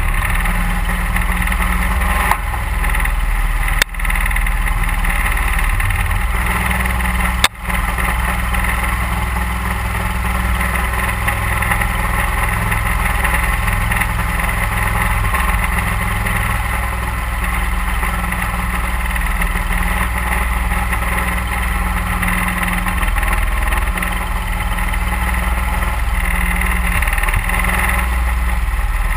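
A 31-horsepower Mud Buddy HyperDrive surface-drive motor running steadily, pushing the duck boat along the creek. It is broken twice by short sharp clicks with brief dips, about four seconds in and again at seven and a half seconds.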